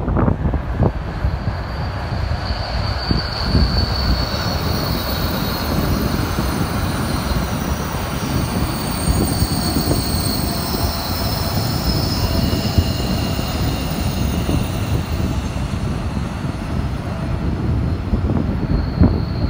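Passenger train running round a tight curve of the Gotthard line, its wheels squealing on the rails in several steady high tones over a continuous low rumble.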